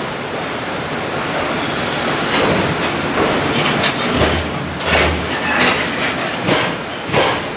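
Container wagons of a departing freight train rolling past, a steady rumble of wheels on rail broken by sharp wheel knocks over rail joints, one every second or so in the second half.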